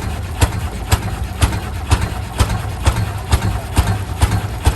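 Rumely OilPull kerosene tractor engine running slowly, with sharp, even exhaust beats about twice a second over a low rumble. The uploader believes this one is a single-cylinder model.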